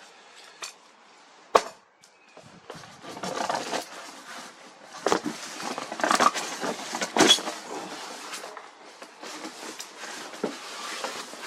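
Scooter packaging being handled and opened: cardboard and plastic wrapping rustling and crinkling, with scattered clicks and knocks, one sharp knock about a second and a half in.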